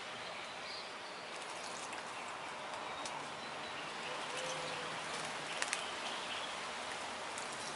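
Steady outdoor background hiss with faint, scattered small-bird chirps, and two sharp ticks close together a little past halfway.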